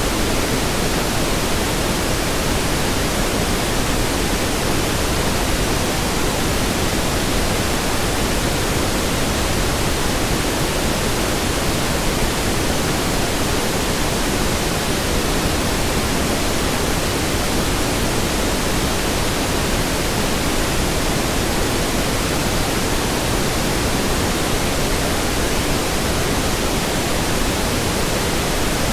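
Steady pink noise: an even, unchanging hiss spread across the whole range, with more weight in the lows than white noise.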